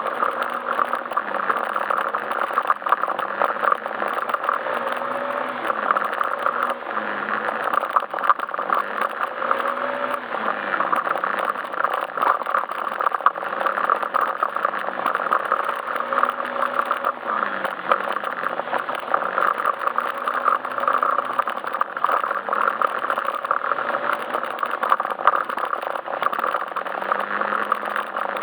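Yamaha Majesty S scooter's single-cylinder engine running under way, its pitch rising and falling every second or two as the throttle opens and closes, under a steady rushing noise.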